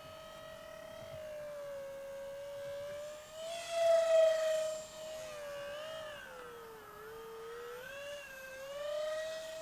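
Twin electric ducted fans of an RC jet whining at high power, the pitch wavering up and down as the throttle and flight path change, swelling to its loudest about four seconds in.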